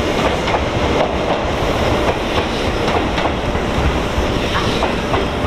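Train running over the rails: a steady rumble with wheel clatter.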